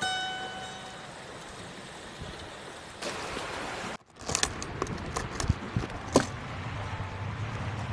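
Plucked guitar notes ringing out and fading, then hiss with a short dropout about four seconds in, followed by scattered clicks and knocks.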